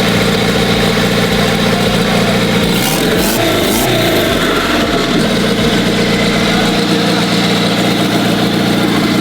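A motor running steadily at an even pitch, with a short hiss about three seconds in.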